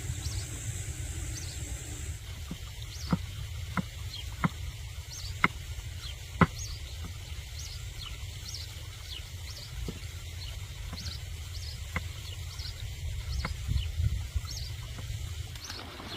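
Small birds chirping over and over above a steady low rumble of wind, broken by a handful of sharp knocks that are loudest about three to six seconds in.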